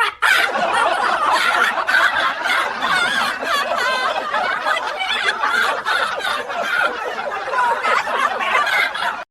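Laughter from several people at once, running on steadily for about nine seconds and cutting off suddenly near the end.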